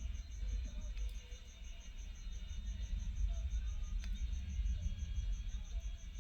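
A faint insect chirping steadily in the background at about six or seven high pulses a second, over a low rumble, with two light clicks about one and four seconds in.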